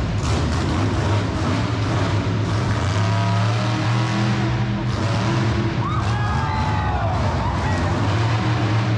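Monster truck engine running loud, its deep drone steady and climbing in pitch now and then as the truck is driven, with the arena's echo and noise around it.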